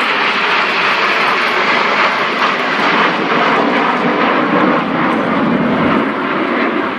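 Loud, steady jet engine noise from a formation of military jets flying past: an F-35B Lightning II with a pair of Eurofighter Typhoons and the Red Arrows. The noise eases slightly near the end.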